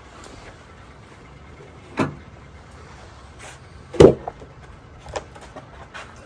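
Heavy wooden knocks: two loud ones about two seconds apart, then a few lighter clicks, as freshly milled poplar slabs are handled and knock against each other.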